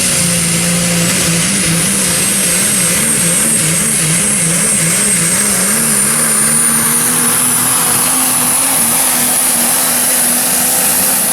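Super Stock diesel 4x4 pulling truck running flat out under load with a high turbocharger whine. The whine slowly climbs in pitch. For the first few seconds the engine note wavers rapidly up and down, then it holds steady.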